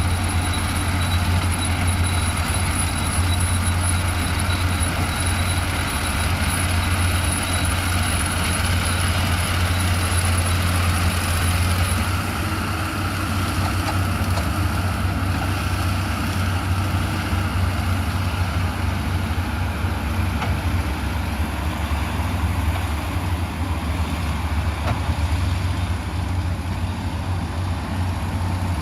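A heavy diesel engine running steadily with a deep, even hum, with a thin high whine over it that stops about twelve seconds in.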